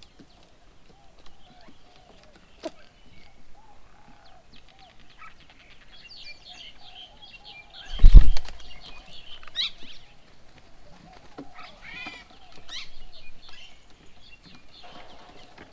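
Small birds chirping and calling at a feeding table, with a short, loud burst of wingbeats close by about halfway through.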